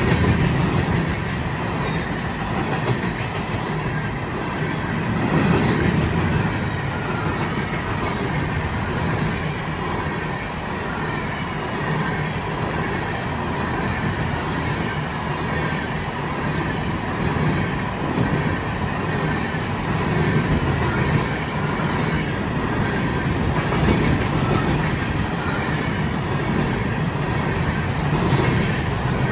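Freight train passing at speed: a continuous rush of wheels on rails with a thin steady whine over it.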